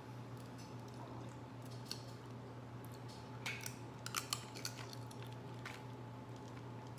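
Seafood shells being broken open while eating: a few small ticks, then a quick cluster of sharp cracks and snaps about three and a half seconds in and one more a little later, over a steady low hum.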